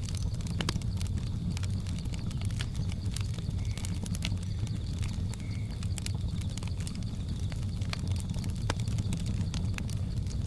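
Wood fire crackling, with irregular sharp pops and snaps over a steady low rumble. Jungle ambience sits underneath: a faint steady high insect-like drone, and two brief high chirps about four and five and a half seconds in.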